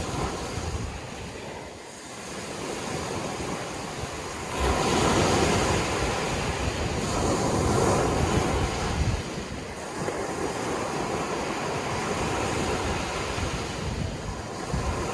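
Sea waves breaking and washing on the shore: a rushing surge that swells about four and a half seconds in and eases after about nine seconds, with wind buffeting the microphone.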